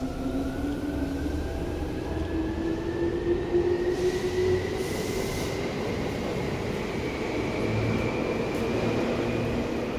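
Seibu 2000 series electric train running, heard from inside the car: its motor and gear whine rises steadily in pitch as the train gathers speed, over the rumble of the wheels. A short hiss comes about five seconds in.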